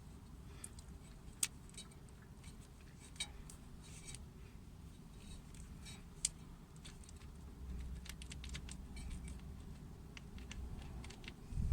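Faint scattered metallic clicks and clinks of hand work on a Lada Granta's front brake caliper as it is fitted back over the pads, with two sharper clinks, one about a second and a half in and another about six seconds in.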